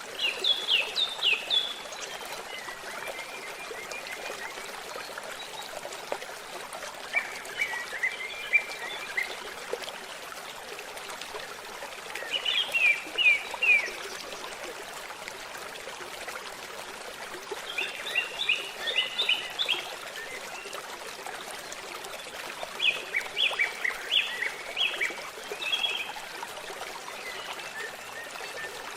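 Running water trickling steadily like a small stream, with songbirds breaking in every few seconds with short bursts of quick, high chirps.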